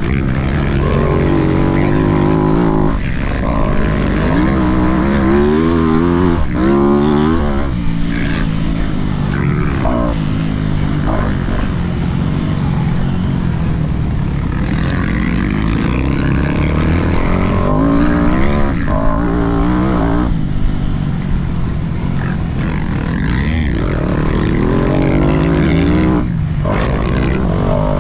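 Motocross bike engine under hard riding, its pitch repeatedly climbing and dropping as the throttle is opened and shut through the gears.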